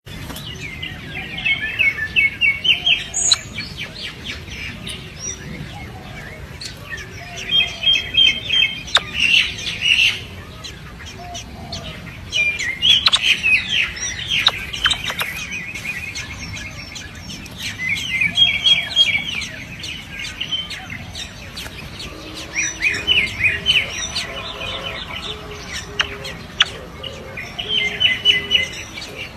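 Baby birds giving begging calls: bouts of rapid, high chirps, each lasting two or three seconds and coming about every five seconds.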